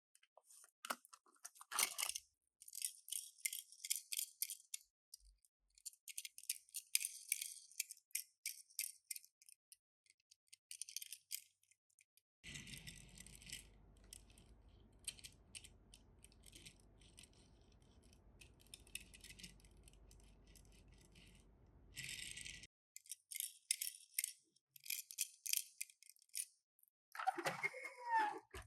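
Small plastic and cardboard clicks and rattles from handling a Tomica die-cast minicar and its packaging, in quick irregular clusters, with a brief squeak near the end.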